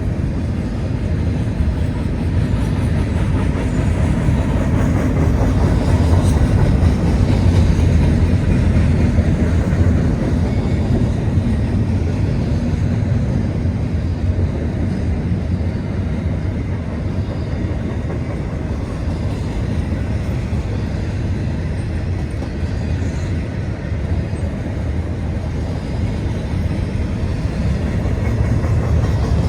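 CSX intermodal freight train rolling past: a steady rumble of wheels on the rails, growing a little louder about five seconds in.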